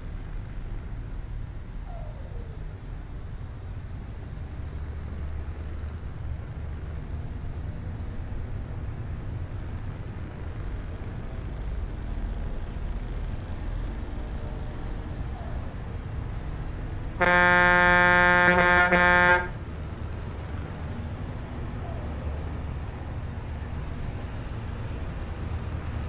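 Scania R730 V8 truck engine running with a steady low drone while driving. A loud horn blast sounds once, for about two seconds, about two-thirds of the way in.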